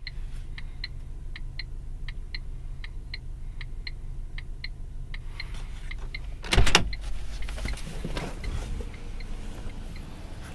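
Car idling with a steady low rumble while its hazard or turn-signal flasher ticks in regular pairs, a bit under one pair a second; about six and a half seconds in there is a loud thud, then a rush of wind noise.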